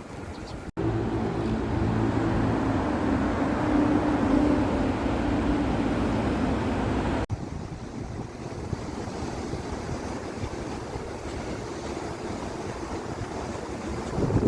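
Heavy rain and wind noise on the microphone. For several seconds a steady low mechanical hum, like a vehicle engine, runs over the rain and stops abruptly at a cut.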